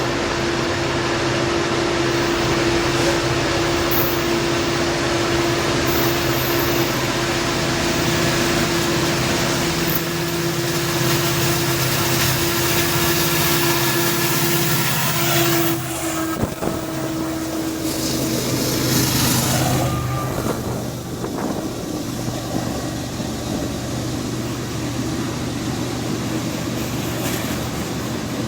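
Diesel locomotives of a freight train passing directly below, their engines working hard up the grade with a steady droning hum. A little over halfway through, the engine drone fades and gives way to the rumble of the train's cars rolling past.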